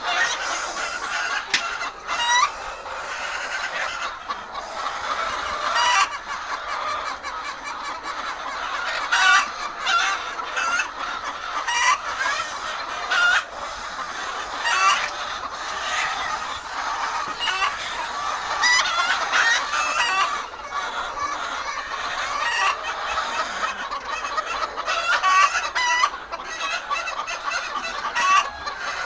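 A large flock of laying hens clucking continuously, many short overlapping calls at once.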